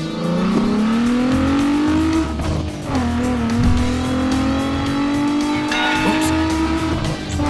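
Car engine revving, its pitch climbing over the first two seconds, dropping back, then holding and creeping up again, over background music with a steady beat.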